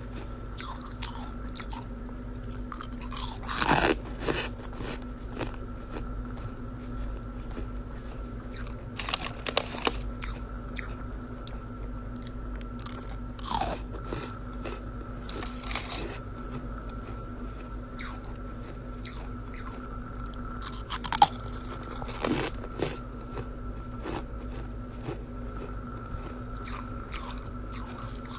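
Chest-freezer frost ice being bitten and chewed close to the microphone: crisp crunching with many small crackles and several louder bites spread through, over a faint steady hum.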